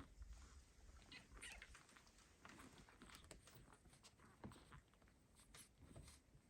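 Near silence with faint scattered ticks and rustles, the sound of kittens moving about and playing.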